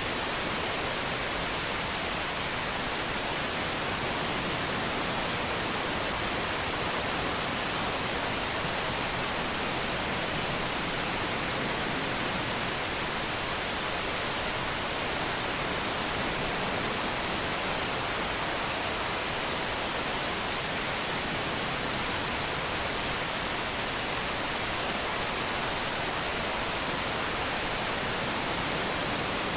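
Waterfall's falling water rushing steadily, an even hiss without pauses or changes.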